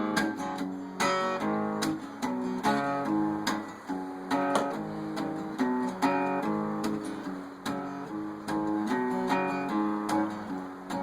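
Acoustic guitar strumming chords in a steady rhythm, the instrumental intro of a song before the vocal comes in.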